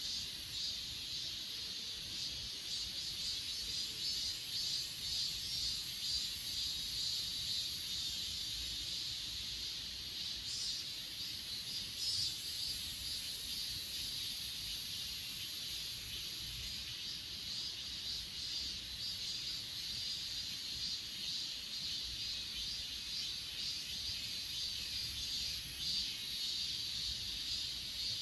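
Crickets and other grass insects chirring steadily in a dense, high-pitched chorus, with a stretch of louder, higher chirring from about twelve to sixteen seconds in.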